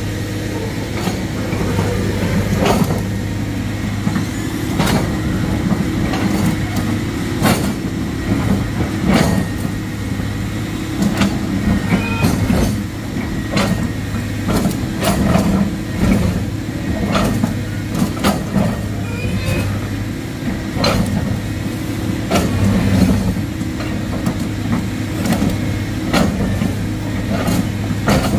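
Heavy diesel engine of an excavator running steadily under load, with frequent sharp metallic clanks and knocks at irregular intervals.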